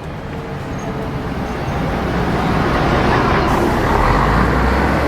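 A bus driving up close, its engine and tyre noise growing steadily louder, with a deep engine rumble strongest near the end.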